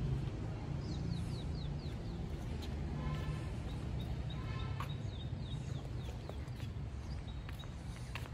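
Outdoor birds calling: a run of about five short, quick descending chirps, a longer call with a reedy layered tone in the middle, and another run of chirps after it, over a steady low rumble.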